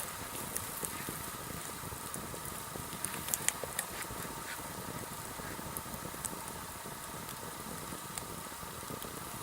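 Sawtooth oak (kunugi) firewood burning in a campfire: a steady rush of flame with scattered sharp crackles and pops, a small cluster of them a little after three seconds in.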